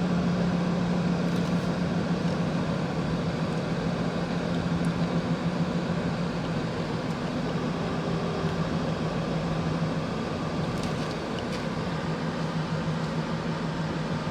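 Car running on the road, heard from inside the cabin: a steady low engine hum over even tyre and road noise.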